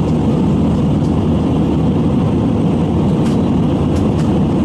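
Steady jet airliner cabin noise in flight, an even rushing drone from the engines and airflow. A few faint ticks come through in the second half.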